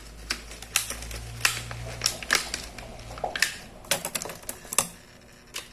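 Small plastic toy pieces, such as play cutlery and dishes, clicking and clattering irregularly as they are handled.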